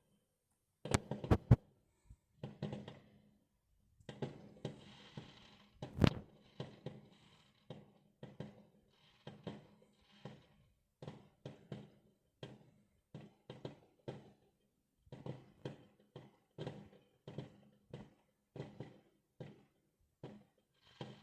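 Fireworks going off: a steady run of sharp bangs, about one or two a second, with a few louder bangs near the start and one about six seconds in.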